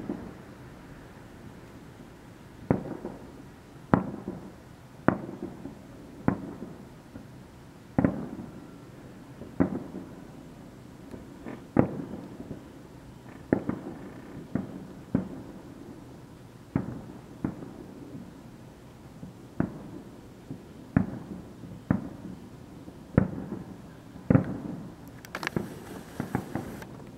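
Aerial firework shells bursting one after another, about twenty sharp booms at irregular intervals of one to two seconds, each trailing off in a rolling echo. Near the end a brief high hiss sounds over the booms.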